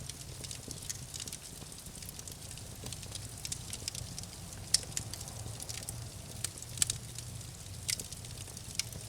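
Campfire burning, with irregular sharp crackles and pops from the wood over a steady low rumble; the loudest pops come a little before the middle and twice more in the second half.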